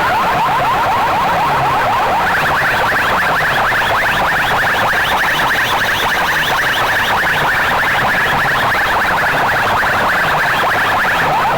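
Electronic siren-like competition tone played very loud through sound-system speaker boxes. Rapid rising chirps repeat several times a second, stepping up in pitch about two seconds in, over a slower falling bass sweep about once a second.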